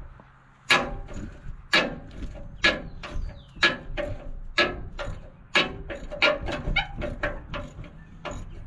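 Hammer blows on metal, about one a second, each ringing briefly, then a quicker run of lighter strikes after about six seconds: freeing rusted, spinning bolts on a tractor's battery box.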